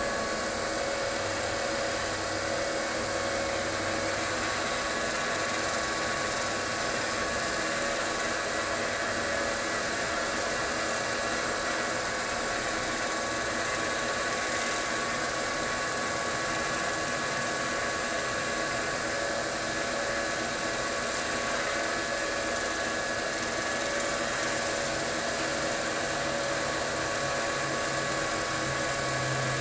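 Wood lathe running at a steady speed, a steady motor whine with a hiss over it, while a bowl is sanded on it. A deeper hum comes in near the end.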